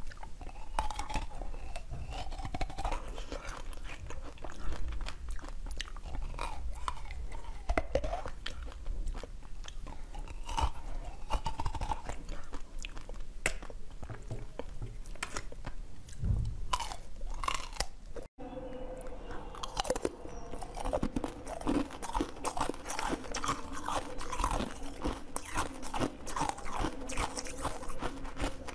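Close-up crunching, biting and chewing of glossy sugar-coated strawberries on skewers (tanghulu). After a cut about two-thirds through, softer chewing of purple jelly pieces follows over a steady low hum.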